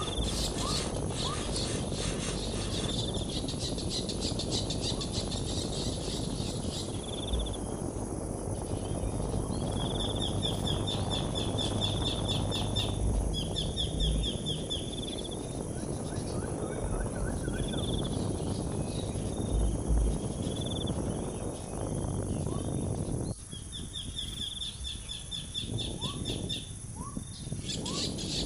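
Outdoor ambience: repeated high, rapidly pulsed trills of insects, each lasting a second or two, with a few short rising chirps at the start and again near the end. A steady rushing noise sits underneath.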